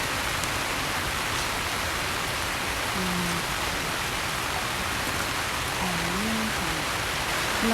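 Steady rain falling, an even hiss with no break. A couple of faint, brief pitched sounds come through it about three and six seconds in.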